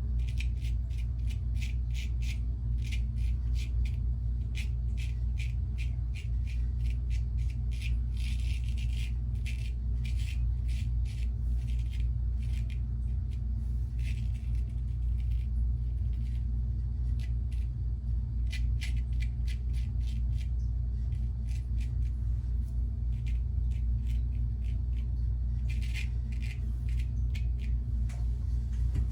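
Weck razor blade scraping through lathered stubble in quick runs of short rasping strokes, over a steady low hum.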